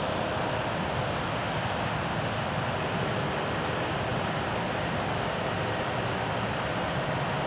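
Steady rush of the flooded Chattahoochee River's fast, high water.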